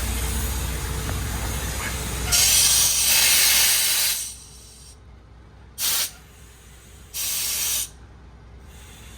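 Air hissing from a MAN TGX truck's compressed-air system: one long, loud release of air, then two short bursts. The idling engine's rumble drops away about four seconds in.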